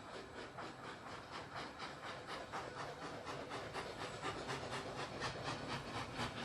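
Steam locomotive chugging in a steady rhythm of about four puffs a second, hissing steam between the puffs, slowly growing louder.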